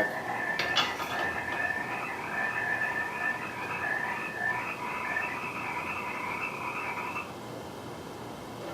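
A chorus of frogs calling steadily, then stopping suddenly about seven seconds in. A couple of faint clicks come near the start.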